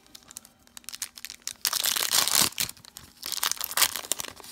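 Foil trading-card booster pack wrappers crinkling and tearing as packs are handled and ripped open, with scattered crackles and two longer bursts of rustling, the first under a second in length and the second shorter, near the middle and about three seconds in.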